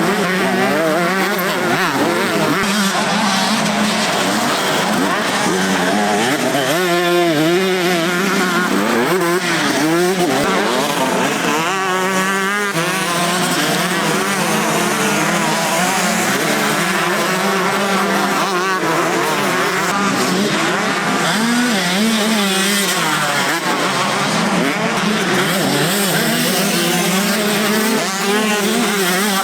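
Several 125cc motocross bikes racing, their engines revving up and down with pitches rising and falling and overlapping as they pass and accelerate.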